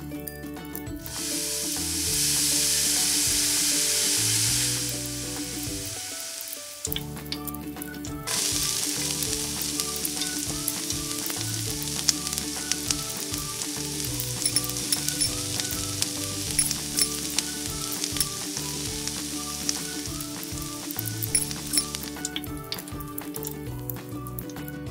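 Food sizzling as it fries in a miniature pan, in two spells: a short one starting about a second in, and a longer one with small pops from about eight seconds in until a few seconds before the end.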